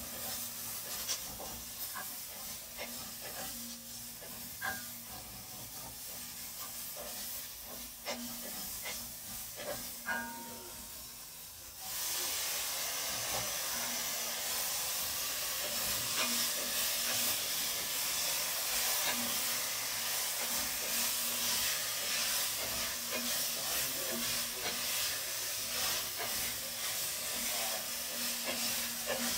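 Wooden spatula scraping and tapping in an enameled pot as chopped onion and garlic sauté with a light sizzle. About twelve seconds in, green beans go into the hot pot and a loud, steady sizzling hiss sets in as they are stir-fried.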